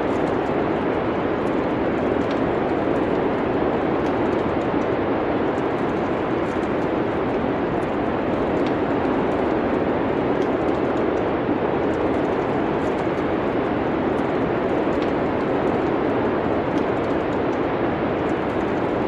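Steady rushing winter wind-and-snowfall ambience, with faint, scattered crackles of a wood fire.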